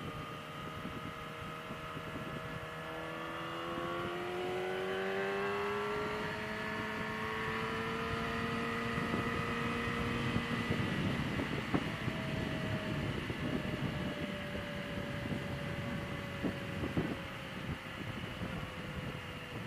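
Yamaha R6's inline-four engine on the move, its pitch climbing steadily for several seconds as the bike accelerates, then dropping about ten seconds in to a lower tone that slowly falls, with wind rush throughout.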